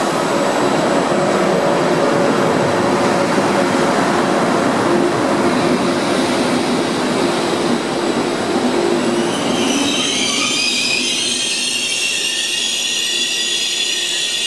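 A passenger train of coaches rolls past along the platform with a steady rumble of wheels on rail. About two-thirds of the way in, a high-pitched wheel squeal sets in and continues.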